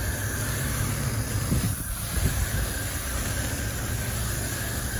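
Steady hiss of a chemical sprayer spraying foaming coil cleaner into an HVAC condenser coil, over a low steady mechanical hum.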